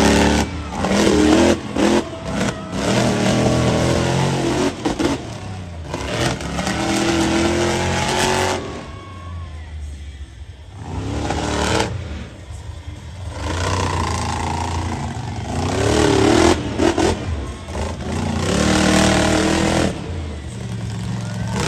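Monster truck engine revving hard in repeated bursts, its pitch climbing and falling as the throttle is opened and chopped, with a short lull about nine to eleven seconds in.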